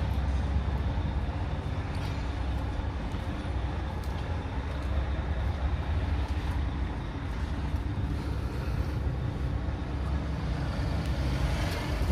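Nissan UD MK38 truck's 4.7-litre diesel engine running steadily, a low, even rumble.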